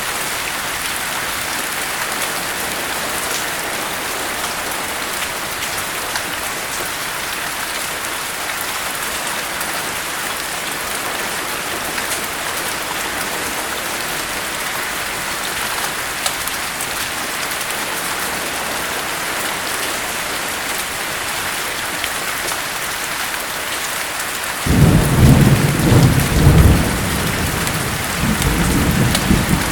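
Steady heavy rain falling, with a loud rumble of thunder breaking in suddenly near the end and rolling on in surges.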